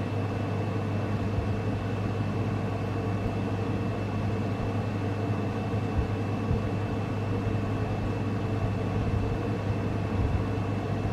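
Steady low machine hum with a thin, constant high whine above it, unchanging throughout, and a few faint soft taps.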